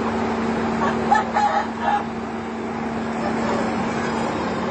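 A chicken calling, a few short pitched calls about a second in, over a steady motor hum.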